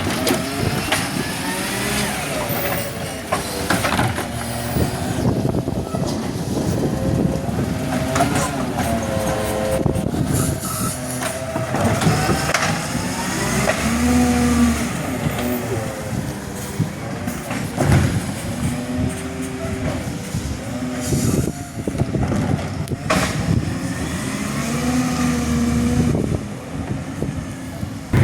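Garbage truck engine running, its pitch rising and falling again and again, with a few knocks.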